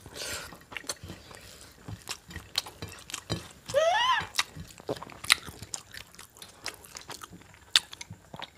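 Eating sounds from a meal of rice and beef: chewing and mouth smacks with many small scattered clicks. A brief rising vocal sound comes about four seconds in.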